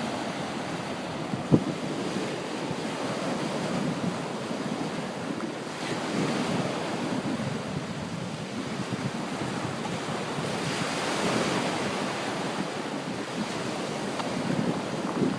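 Small waves washing on a beach, swelling and easing, with wind buffeting the microphone. A single sharp tap about a second and a half in.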